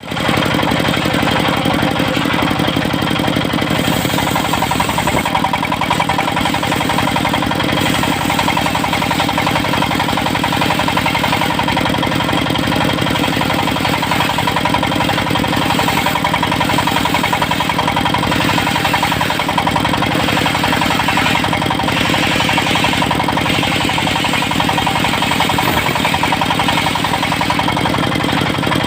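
Engine of a portable circular-saw sawmill running steadily, with an even, unchanging rapid firing beat.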